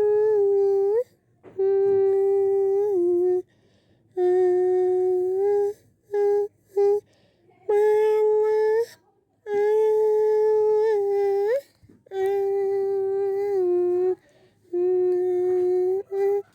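A high voice humming a slow tune in long held notes, each a second or two, with small dips in pitch at the ends of phrases and short breaks between them.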